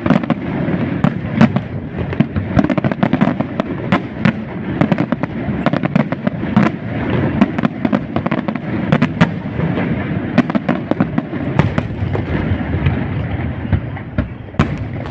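Fireworks display in full barrage: a continuous rumble of shell bursts with many sharp cracks going off in quick succession throughout.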